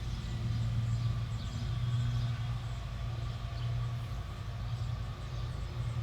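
A steady low engine hum with faint bird chirps above it.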